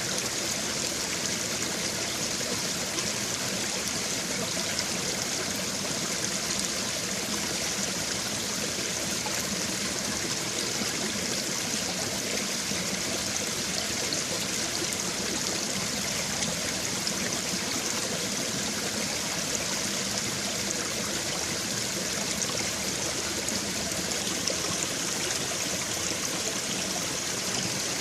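Babbling brook: shallow stream water running and trickling over stones, a steady even rush with no pauses.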